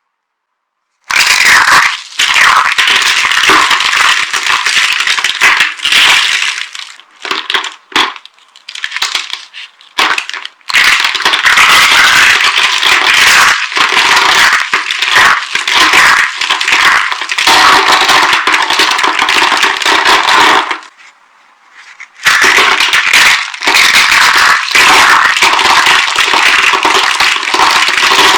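Dry bar soap being crushed and broken apart, a dense, loud crunching and crackling. It comes in short bursts partway through and stops briefly before resuming near the end.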